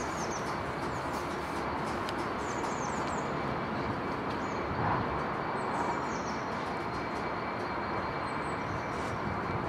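Freight wagons loaded with cable drums rolling slowly past, a steady even noise with no sharp knocks. Small birds chirp with short falling notes several times over it.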